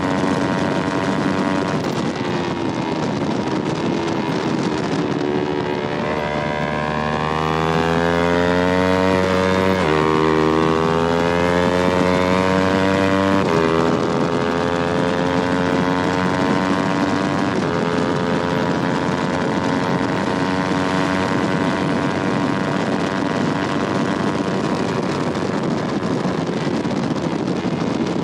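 Yamaha R3's parallel-twin engine running hard on track. Partway through it climbs in pitch, then drops sharply twice a few seconds apart as it shifts up, before settling to a steadier note.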